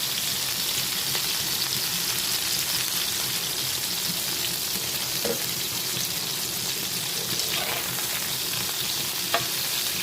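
Food frying in hot oil in a pan, a steady sizzle, with one sharp click about nine seconds in.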